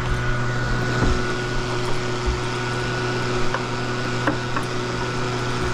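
A machine running steadily with a low hum and a faint hiss, and a few light clicks or knocks partway through.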